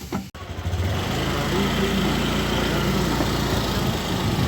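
A vehicle engine running steadily. It comes in after a brief drop-out about a third of a second in and builds over the first second.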